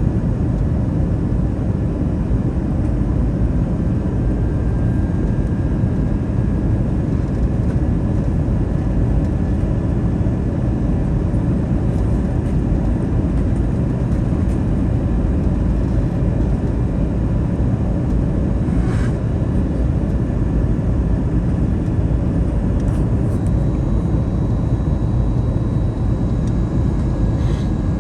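Steady cabin noise of an Airbus A321neo airliner in flight, heard from a front-row seat: a deep, even rush of airflow and engine drone, with faint steady whining tones above it. A couple of faint brief clicks sound past the middle and near the end.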